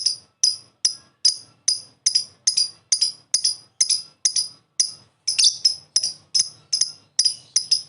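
Lovebird in its 'ngekek' song: a long unbroken string of sharp, high chirps, about three to four a second.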